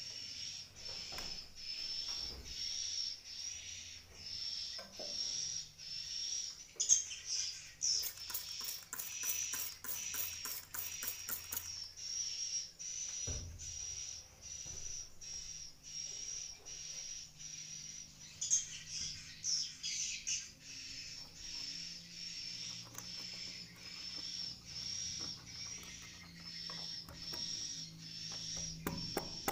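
Swiftlets chirping inside a swiftlet house, a steady run of short, high, repeated twittering calls. Rapid sharp clicks break in for a few seconds near the middle.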